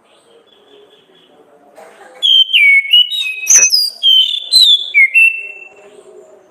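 Orange-headed thrush singing a loud phrase of clear whistled notes that jump up and down in pitch. It starts about two seconds in and lasts about three and a half seconds.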